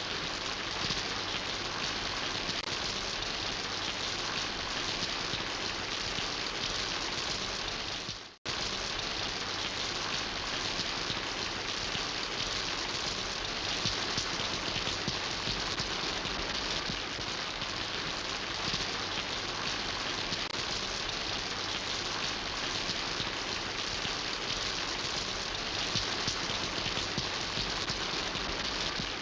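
Steady rain falling, the drops hitting surfaces in an even hiss. About eight seconds in, the sound fades out to almost nothing for a moment and then cuts straight back in.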